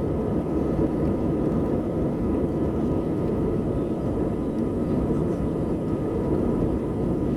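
Airbus A320 jet engines at takeoff thrust, heard from inside the cabin during the takeoff roll: a loud, steady rumble with a faint steady whine.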